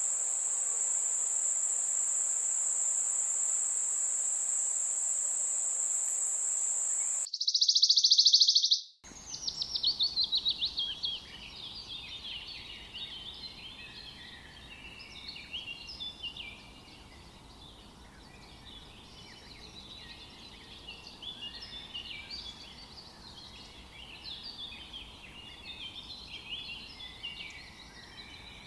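A steady, very high cricket drone that cuts off abruptly about seven seconds in, followed by a brief loud high hiss. Then many birds chirping and twittering over one another, starting with a rapid, falling trill.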